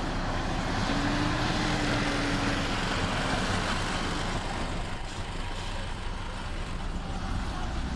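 Heavy diesel earth-moving machinery running steadily under load, with a low engine hum and a faint whine that rises and falls over the first few seconds.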